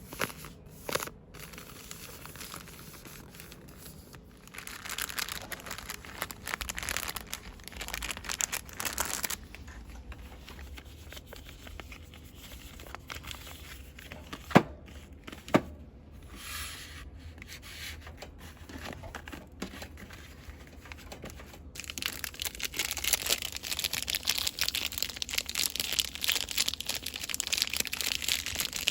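Cosmetics and soap packaging crinkled and rustled quickly by hand, close to the microphone, in uneven bursts. Two sharp clicks come about halfway, and the rustling grows denser and louder in the last third.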